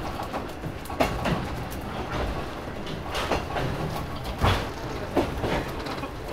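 Tsugaru Railway stove train running, heard from inside an old passenger coach: a steady low rumble with irregular sharp knocks and rattles from the car body and fittings, the loudest about four and a half seconds in.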